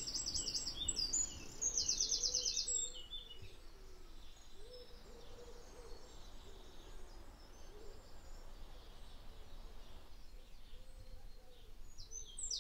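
Wild birds singing: a songbird's rapid, high trill twice in the first three seconds, with softer, lower wavering calls going on underneath.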